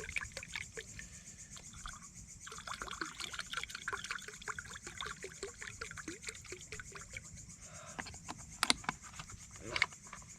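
Liquid being poured and trickling, with a dense run of small splashes for about seven seconds, then a few sharp clicks near the end. A steady high-pitched insect chirring runs underneath.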